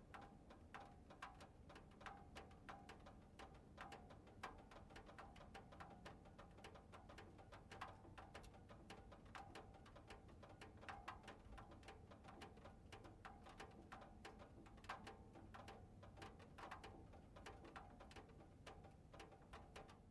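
Irregular light ticking, several clicks a second, from the switched-off 1990 Porsche 911's air-cooled flat-six and exhaust as the hot metal cools and contracts.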